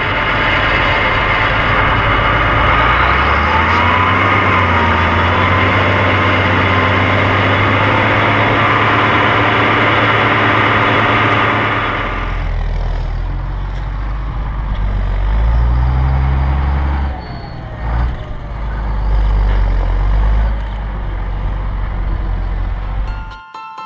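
IHC 1455 XL tractor's six-cylinder diesel engine running steadily under load while drilling maize. About halfway through, the sound drops to a quieter, deeper note.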